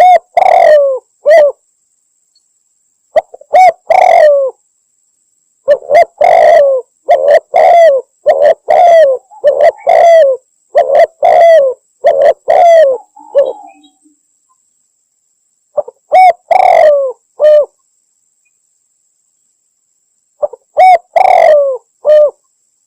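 Spotted dove (tekukur) cooing: a lure recording of a female calling males, in phrases of several coos with dead-silent gaps between them, the longest run lasting about eight seconds in the middle.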